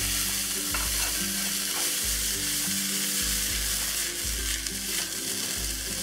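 Wet, freshly blanched cauliflower stick sizzling loudly in hot oil in a wok as it is stir-fried and tossed. The sizzle is a steady hiss.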